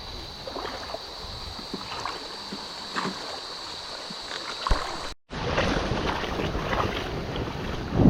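Water sloshing and splashing with scattered light knocks, as of someone wading through a shallow stream, over a steady high-pitched drone. About five seconds in, the sound cuts off for an instant and comes back as a louder, rougher wash of noise.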